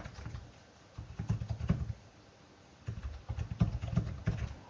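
Typing on a computer keyboard: two runs of quick keystrokes, the first about a second in and a longer one from about three seconds in.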